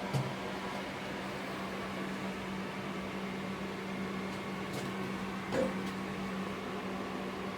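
A small electric motor humming steadily, with a few light clicks and one short knock about five and a half seconds in.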